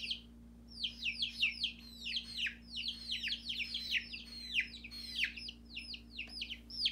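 Several baby chicks peeping: a quick, overlapping stream of high, falling cheeps, several a second, with a short break just after the start.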